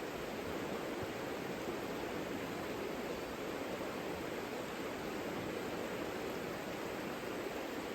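Steady, even rushing of a flowing river's water.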